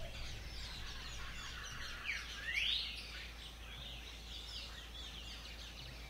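Several birds chirping and trilling, with one louder rising call a little over two seconds in, over a faint steady low hum.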